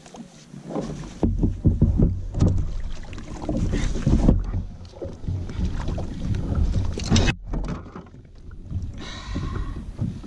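Irregular knocks, rubbing and water sounds around a plastic fishing kayak while a fish is fought on the line, with wind rumbling on the microphone.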